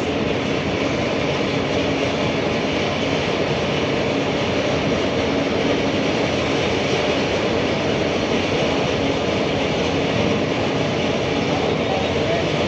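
Steady mechanical drone of a running engine or machine, with a constant low hum and no change in speed or load.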